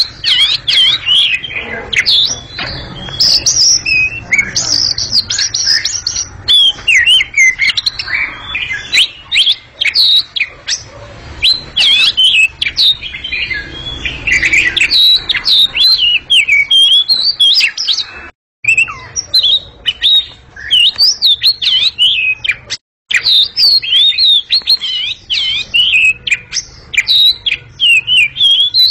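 House-bred oriental magpie-robin (kacer) singing loud and clear: a rapid, continuous stream of varied chirps and whistles, broken by two brief dropouts in the second half.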